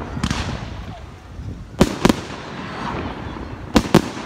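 Fireworks display: aerial shells bursting with sharp bangs, two quick pairs of bangs about two seconds apart, over a steady background rumble.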